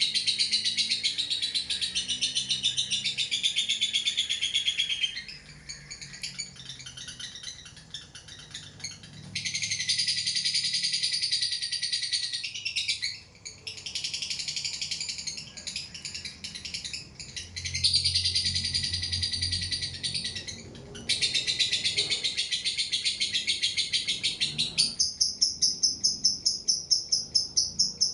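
Lovebird in long 'ngekek' song: rapid, high, shrill chattering trills held for several seconds at a time, broken by short pauses. About three seconds before the end, an even pulsing chirp of about three pulses a second takes over.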